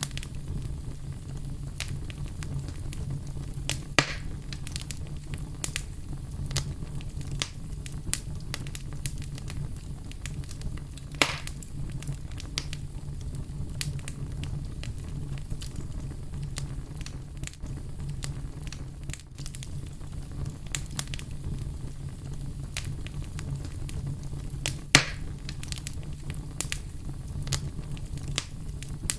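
Fire crackling steadily over a low rumble, with many small pops and three louder sharp pops: about four seconds in, about eleven seconds in, and near the end.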